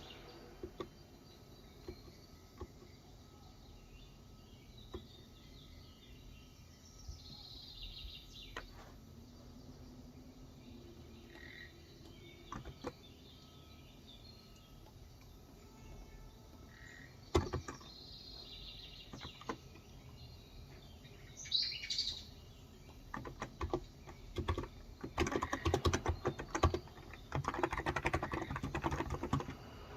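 Birds chirping, a few short high calls spread apart, over a quiet background. About three-quarters of the way in, fast typing starts on a Cox Endeavor tenkeyless electro-capacitive keyboard with 35 g keys and becomes the loudest sound.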